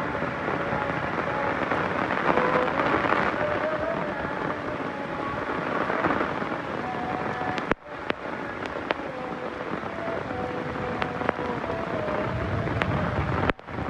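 Heavy rain falling steadily, with sharp drop hits scattered through it and a low thunder rumble near the end. The sound cuts out for an instant about eight seconds in and again at the very end.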